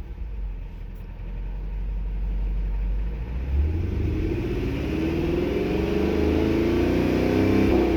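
2010 Dodge Challenger SRT-8's 6.1-litre HEMI V8 idling, then revved slowly from about halfway through, its pitch climbing to a peak near the end.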